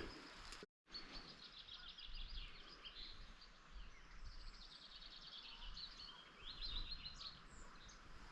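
Faint songbirds singing, with quick, high chirps and trills that come and go. The sound cuts out completely for a moment just under a second in.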